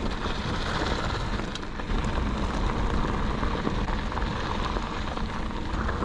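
Mountain bike riding on a dirt service road: a steady crunch and rattle of tyres over dirt and gravel, mixed with wind rumbling on the microphone.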